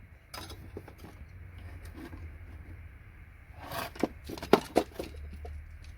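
A metal scraper tapped against an IDE connector on a circuit board to knock it off. There are small scrapes and clicks at first, then a quick run of about six sharp knocks past the middle.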